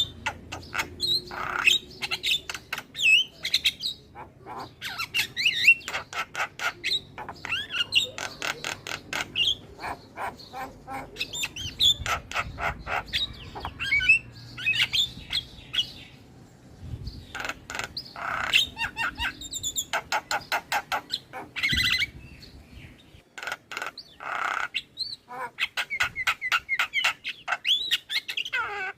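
Javan myna (jalak kebo) singing: rapid chattering, clicking strokes mixed with whistled glides and squawks, in bursts broken by brief pauses.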